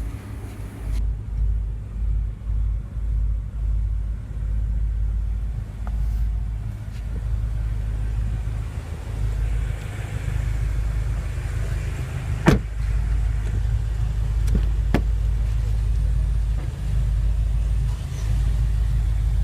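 A car's low, steady rumble, with one sharp click about twelve and a half seconds in and two fainter clicks a couple of seconds later.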